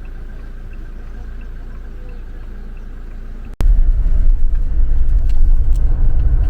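Steady low rumble of a moving vehicle. After a sudden cut about three and a half seconds in, it becomes a much louder, heavier low rumble.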